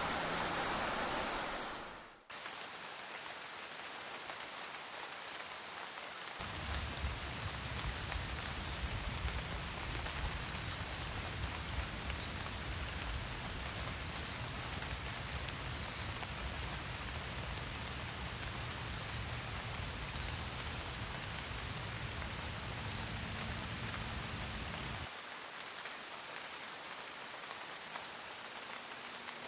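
Steady patter of rain. A louder rushing noise fades out in the first two seconds, and a low rumble runs under the rain from about six seconds in until it stops abruptly near twenty-five seconds.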